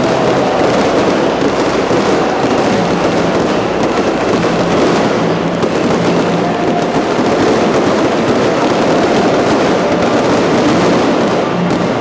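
Fireworks display: dense, continuous crackling and popping of many small bursts overlapping, without a break.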